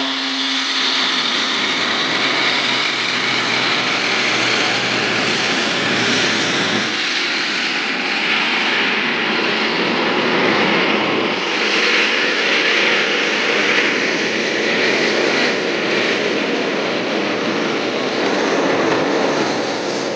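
Edge 540 aerobatic plane's six-cylinder piston engine and propeller running hard during aerobatics, a loud, steady rasp that swells and eases as the plane manoeuvres.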